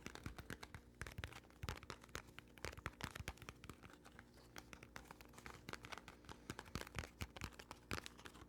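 Close-miked ASMR trigger sounds: quiet, irregular clicks and taps, closely spaced, with a scratchy, crinkly edge.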